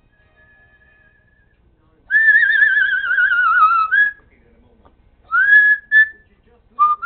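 Parrot whistling: a faint note, then a loud long warbling whistle that slowly falls in pitch, followed by a rising whistle and a few short high notes.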